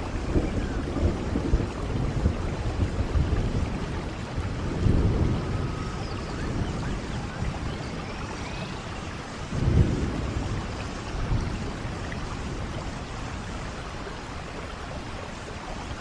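Steady rain with low rumbles of thunder; the loudest rumble comes about ten seconds in.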